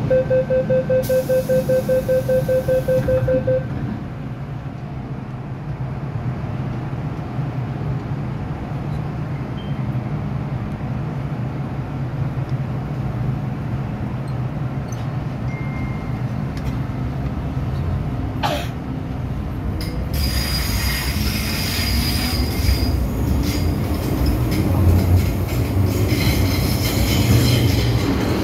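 MTR M-Train door-closing warning: a rapid pulsing beep for about three and a half seconds. Then the train's steady low running rumble, growing louder with a rising whine and wheel-on-rail noise from about twenty seconds in as it picks up speed.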